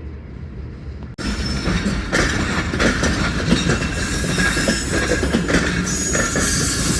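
Pakistan Railways passenger train coaches running past close by, wheels clacking over the rail joints with high-pitched wheel squeal. A low rumble in the first second gives way abruptly to the loud passing train.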